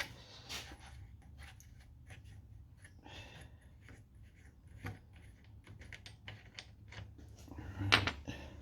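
Small clicks, taps and light plastic and metal knocks from hands removing the air cleaner cover and filter from a Honda GX110 engine, with a louder clatter near the end.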